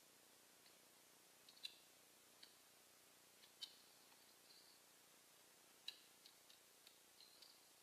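Faint, scattered sharp clicks and taps, with a few brief high chirps, from birds feeding.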